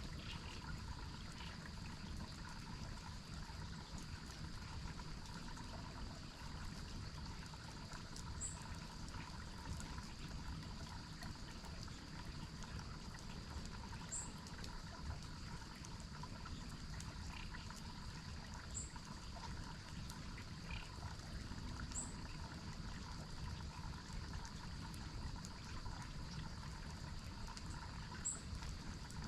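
Water from a waterfall stream trickling and running steadily, with steady high tones from calling insects or frogs beneath it and a short high chirp every few seconds.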